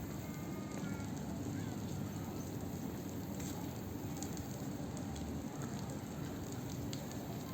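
Steady seaside ambience: a continuous wash of noise with a low rumble and a crackling hiss, and a few faint high chirps in the first second or two.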